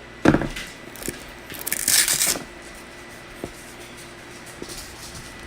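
Handling noises: a sharp thump about a quarter second in, a brief rustling scrape around two seconds, then a few light clicks. The polisher is not running.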